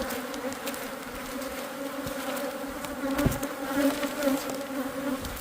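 A mass of Saskatraz honey bees buzzing around their freshly worked hive, a steady hum at wingbeat pitch, the bees stirred up by the hive being opened. A soft thump about three seconds in.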